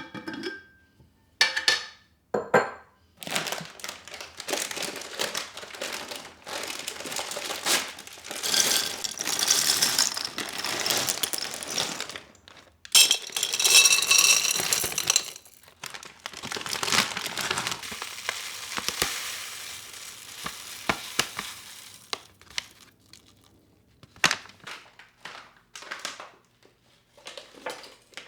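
Plastic packaging being handled, crinkling and rustling in long stretches, louder in two spells, with a few small clicks and knocks.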